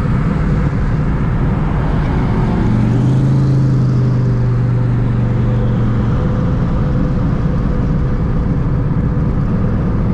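Twin-turbo Terminator Cobra's 4.6-litre V8 running under way with a steady exhaust drone; the engine note climbs a little about two and a half seconds in and eases back around six seconds in.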